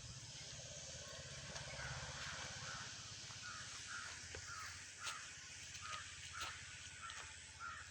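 A bird calling in a quick series of short notes, about three a second, over a low rumbling background.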